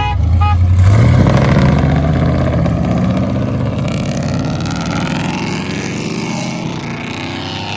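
Pickup truck engine accelerating hard. Its pitch climbs from about a second in, it is loudest over the next second or so, and then it gradually fades. A short horn toot sounds right at the start.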